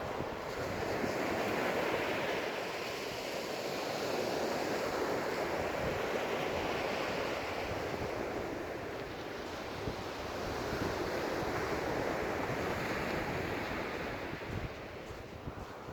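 Ocean surf breaking and washing up the beach, swelling and easing in slow surges every few seconds, with wind buffeting the phone's microphone.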